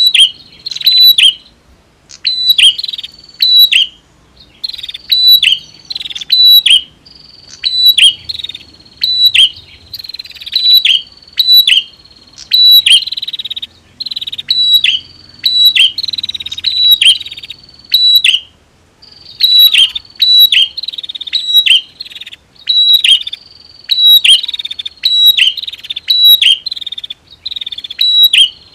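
Male and female prinias (prenjak) calling: loud, sharp chirps in quick clusters of two or three, repeating about once a second, over a thin steady high note.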